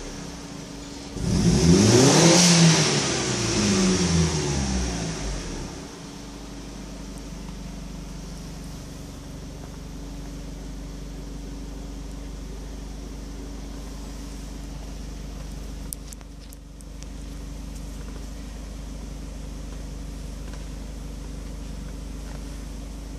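Mitsubishi 4G63 turbocharged inline-four engine revved up about a second in, falling back with a second smaller blip, then settling into a steady idle for the rest of the time.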